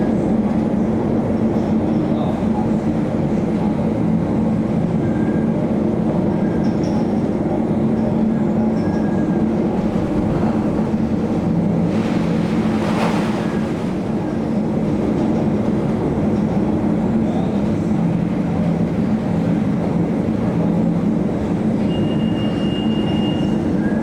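Steady low drone of the Maersk Anglia ferry's engines and machinery heard on board, with a brief rushing noise about halfway through and a short high tone near the end.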